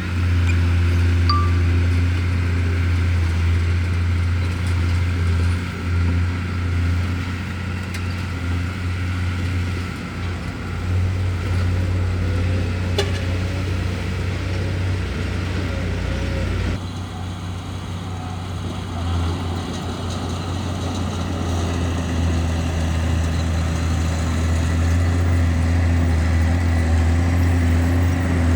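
Bulldozer's diesel engine running steadily with a deep, even drone, with a single sharp click near the middle. The higher part of the sound changes abruptly about two-thirds of the way through.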